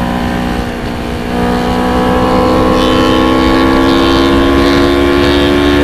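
Motorcycle engine running under way. After a short dip about a second in, its note climbs slowly and steadily as it accelerates.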